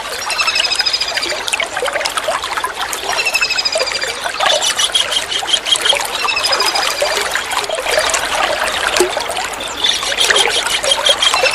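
Kingfisher calls: short rapid series of high repeated notes, recurring every few seconds, over a steady sound of trickling water.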